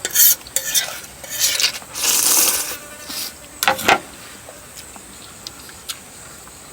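Eating sounds: about five short, noisy mouth bursts in the first four seconds, then quieter with a couple of faint clicks.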